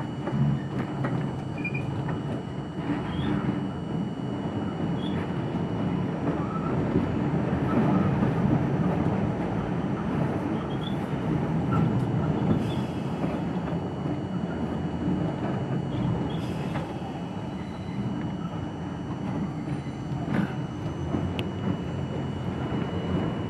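R42 subway car running along the track, a steady rumble of wheels and motors heard from inside the car. It swells a little midway, with a few scattered knocks.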